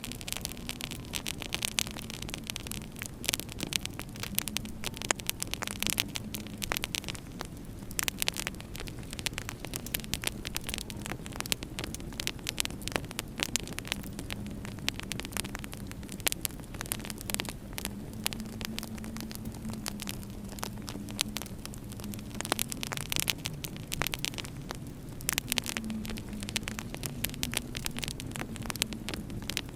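Wood fire crackling in a fireplace, with dense, irregular small pops and snaps over a low wavering hum.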